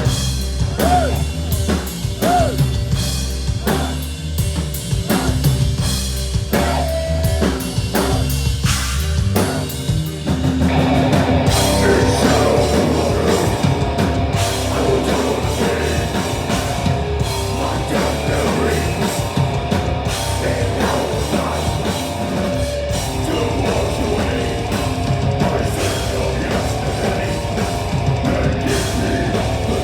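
Doom-death metal band playing live, drums with a steady kick and cymbal hits. The sound thickens as the full band comes in about ten seconds in.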